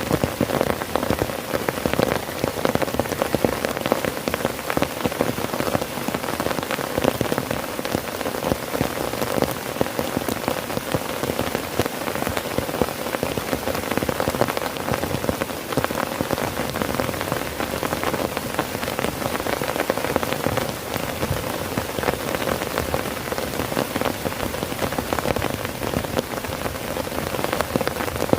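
Heavy rain falling steadily on a tent, a dense, even patter of drops on the fabric.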